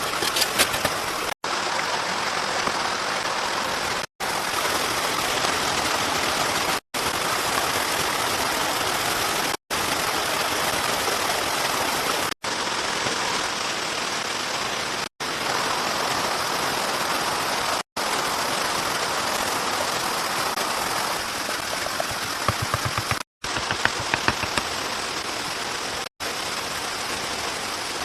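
Heavy rain falling steadily, cut by brief silent gaps every few seconds, with a few sharp taps near the start and again after about 22 seconds.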